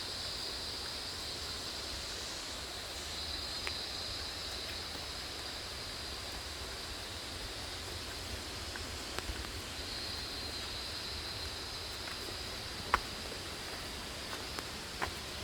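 Steady rush of a waterfall and its stream, with insects buzzing in a high band that fades in and out, and a few sharp clicks near the end.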